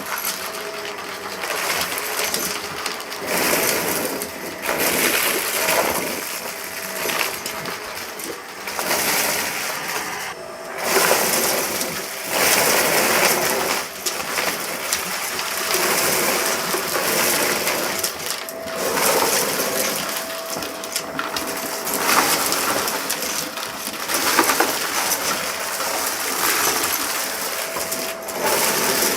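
Vacuum cleaner running over a rug and sucking up a scattered debris mix, with loose bits crackling and rattling up through it over the steady hum of the motor.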